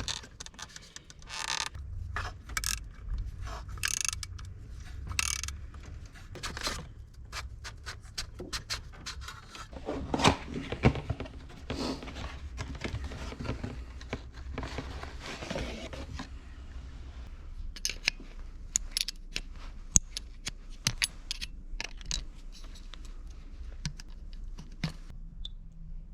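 Hand tools and metal parts being handled during car maintenance work: irregular scraping and rubbing with many sharp clicks and light rattles, busiest around the middle and turning to scattered separate clicks near the end.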